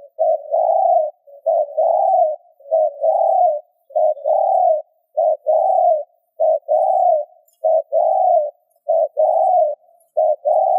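Spotted dove cooing: a run of low, hooting coo notes in quick succession, about one a second, short notes mixed with longer, drawn-out ones.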